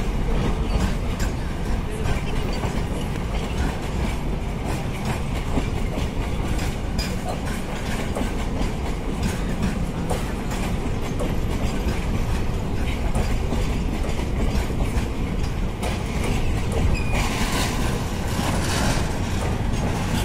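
Indian Railways container freight train on flat wagons passing close by: a steady rumble of wagon wheels with a rapid clatter of clicks over the rail joints. About seventeen seconds in a brighter hiss rises for a couple of seconds.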